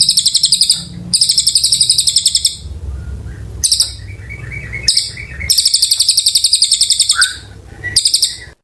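Cililin songbird singing long, fast trills of rapid high repeated notes in several bursts, with short pauses between them.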